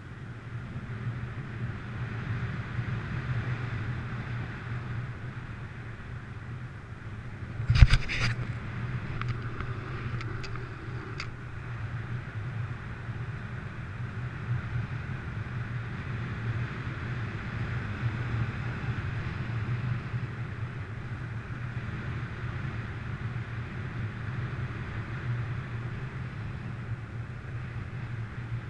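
Strong wind buffeting a GoPro's microphone in paragliding flight, a steady rumble. A sharp knock about eight seconds in, followed by a few faint clicks.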